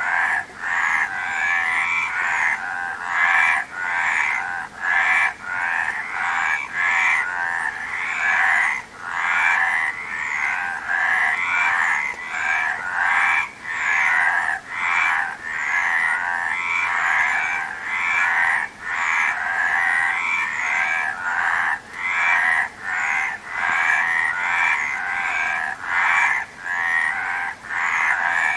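Frogs croaking in a dense, unbroken chorus of overlapping calls, dipping only briefly about once a second.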